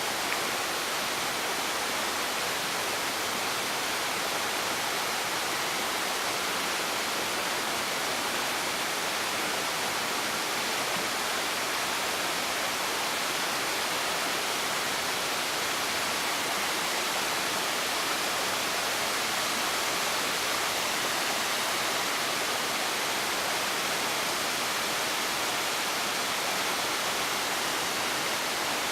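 Steady, even rush of water, unbroken and unchanging in level.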